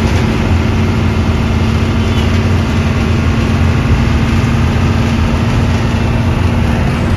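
Hino 1J bus engine running steadily with a deep, even rumble and a constant hum.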